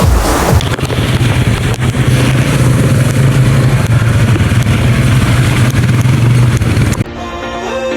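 Quad bike (ATV) engine running with a steady low drone, cut off suddenly about a second before the end as music comes in.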